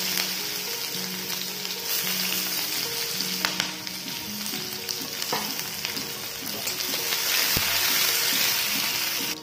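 Chopped onion and green chillies sizzling in hot oil in a kadai: a steady frying hiss. A spatula stirring the pan gives a few sharp clicks in the second half.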